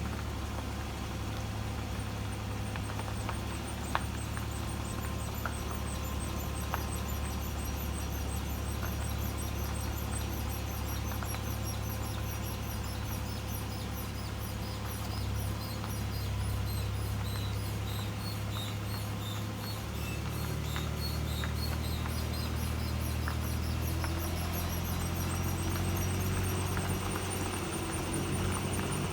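Rapid, high-pitched squeaking in long runs of tiny repeated chirps, over a steady low hum.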